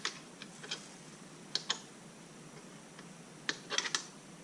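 Sharp, scattered clicks and light metal clinks of small dirt-bike parts and hand tools being handled, with a quick cluster of them near the end.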